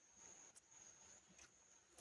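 Near silence: a faint steady high-pitched whine in the background, with a faint tick about half a second in.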